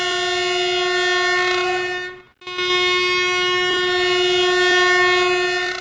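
Train horn sounding two long blasts on one steady note, the first cutting off about two seconds in and the second following almost at once and fading out near the end.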